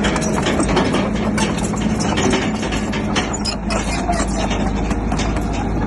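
Crawler bulldozer's diesel engine running steadily under load, with irregular clanks and knocks from the tracks and pushed rock throughout.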